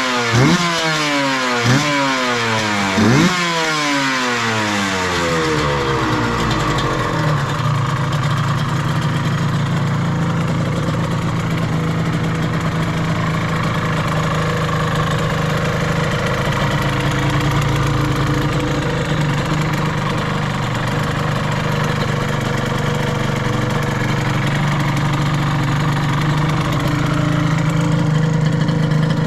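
Suzuki RGV Gamma 250's two-stroke V-twin with Sugaya street expansion chambers, its throttle blipped three times in the first few seconds, each rev quickly falling away. It then settles into a steady idle, which the seller states is free of abnormal noises after the engine swap.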